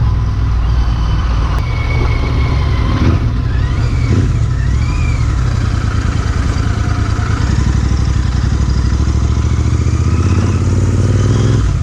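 Royal Enfield Interceptor 650's parallel-twin engine running steadily through a MotoWings aftermarket performance exhaust while the bike is ridden.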